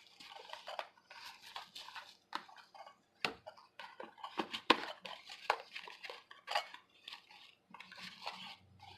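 A small box and its packaging being opened and handled by hand: irregular rustling and crinkling with light clicks and a few sharper knocks as the rattling item inside is moved about.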